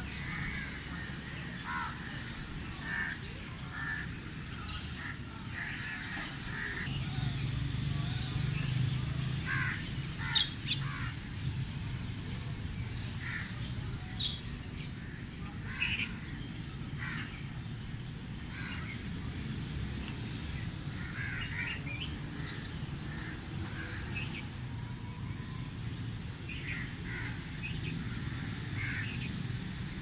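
A flock of birds calling, with many short calls scattered throughout and two louder ones about ten and fourteen seconds in, over a low steady background rumble.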